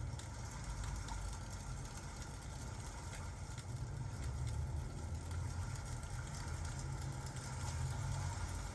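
Ambient sound of a crackling fireplace with steady rain, small crackles over a continuous low rumble.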